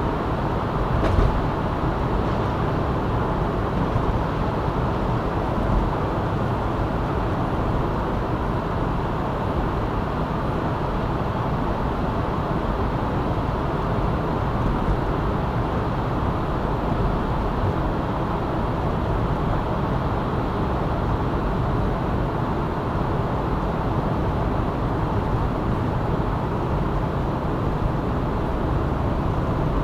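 Steady road and tyre noise of a car driving along a city ring road, with a brief knock about a second in.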